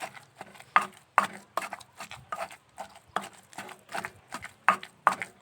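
Pestle pounding in a mortar, steady knocks about two or three a second, as shrimp and hog plums are crushed into a dip.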